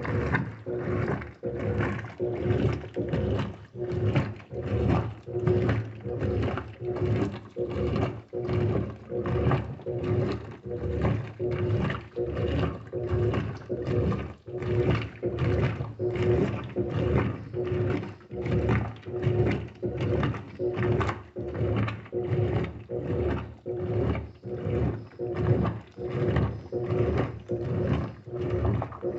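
GE 15 kg washing machine agitating a load: a steady motor hum under a rhythmic swish of water and clothes, about three strokes every two seconds.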